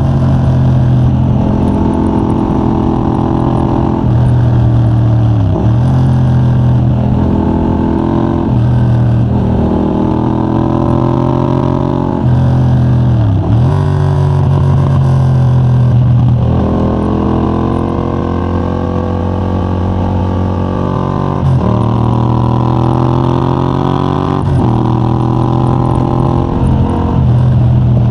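Yamaha MT-07's 689cc parallel-twin engine through a de-catted Mivv GP Pro titanium exhaust, ridden hard. The engine pitch climbs under acceleration and drops sharply at gear changes, over and over.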